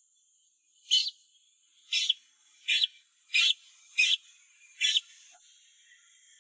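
A young bird calling six short, high peeps, roughly one every three-quarters of a second, over a faint steady high hiss.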